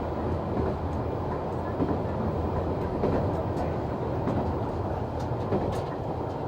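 Noto Railway NT100 diesel railcar running between stations, heard from inside: a steady engine and running rumble with scattered clicks of the wheels over the rails.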